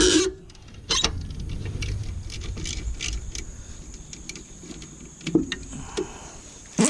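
Hand tools clinking and clicking against metal engine parts while alternator bolts are worked loose: irregular sharp knocks and ticks, the strongest about a second in, twice more in the second half, and one near the end, over low handling rumble.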